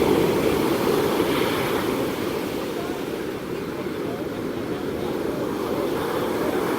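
Ocean waves washing in, a steady rush of surf.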